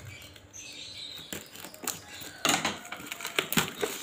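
Cardboard and plastic packaging being handled while a cordless drill is unboxed: light clicks and taps at first, then a run of louder rustling and scraping about two and a half seconds in.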